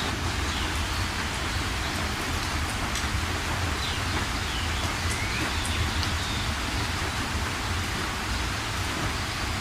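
Steady heavy rain. A few faint bird calls, short whistled glides, come through it, mostly around the middle.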